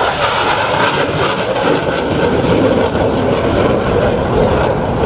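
Jet roar of Blue Angels F/A-18 Super Hornets passing over, with the deep rumble building over the first two seconds and then holding loud and steady.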